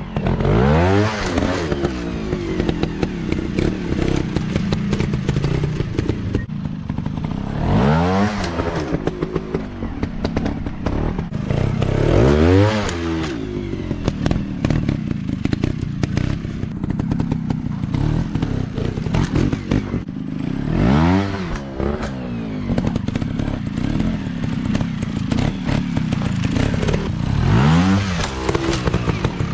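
Off-road dirt bike engines revving up and dropping back again and again, with about five big rises in pitch. Clattering and knocks run throughout.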